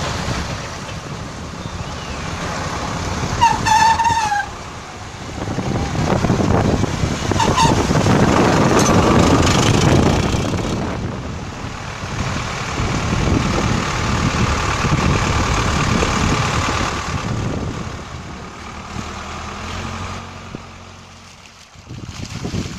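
Sonalika DI 60 RX tractor engine running as it travels along the road with traffic noise around it. A brief high-pitched toot comes about three and a half seconds in, and a shorter one near eight seconds.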